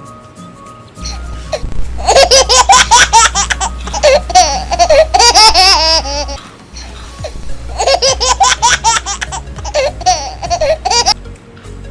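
Loud, high-pitched laughter in two long bouts of quick repeated bursts, the first starting about a second and a half in and the second about a second after it stops.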